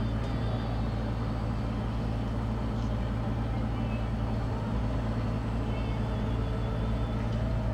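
Passenger boat's diesel engine running with a steady low drone.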